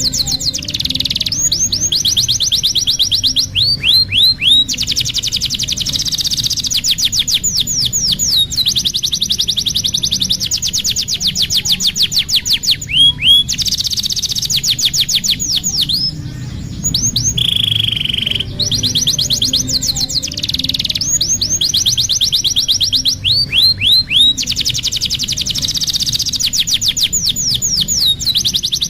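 Domestic canary singing: long, fast trills of rapidly repeated high notes, broken by short runs of downward-sweeping notes, phrase after phrase without pause. The same song sequence comes round again about every sixteen seconds.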